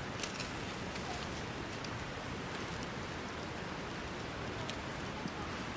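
Wood fire burning: a steady hiss with a few sharp crackles, a couple just after the start and one near the end.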